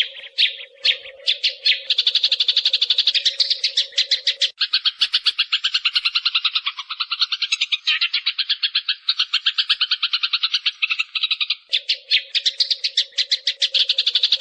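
Recorded sparrow calls played as a trapping decoy: a dense, rapid run of chirps, many a second, going on without a break. A faint steady low hum sits under the chirping for the first few seconds and again near the end.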